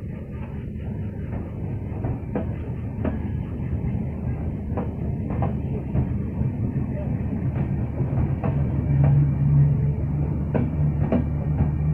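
Passenger coaches of a departing express train rolling slowly past, with a low rumble that grows louder as it picks up speed. The wheels click over the rail joints, often in pairs, every second or two.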